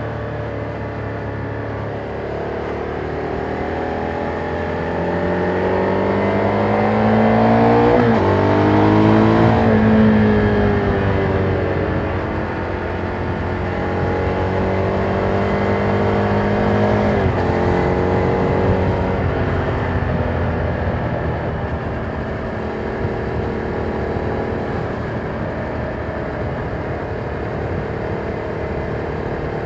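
Ducati Monster 797's air-cooled L-twin engine on its stock exhaust, heard from the rider's back, pulling up through the revs with a gear change about eight seconds in, easing off, changing gear again around seventeen seconds, then running steadily. Wind noise runs underneath.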